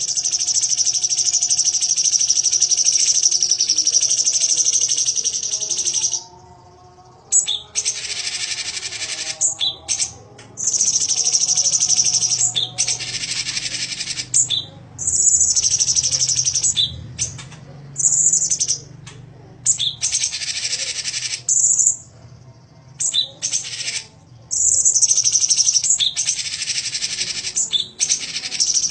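Cucak cungkok songbird singing in long, rapid, high-pitched chattering bursts of several seconds each, broken by short pauses.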